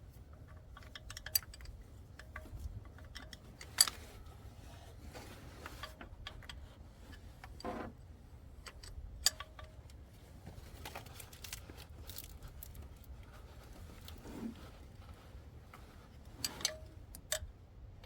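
Hand wrenches clinking and clicking against metal while bolts are worked loose, sharp metallic ticks every few seconds with a louder clink about four seconds in, over a steady low rumble.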